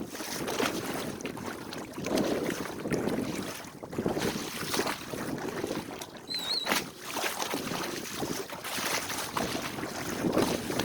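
Water splashing and rushing along the hull of a small sailboat moving under sail through light chop, in uneven surges every second or two, with wind buffeting the microphone. A brief wavering high chirp sounds about six seconds in.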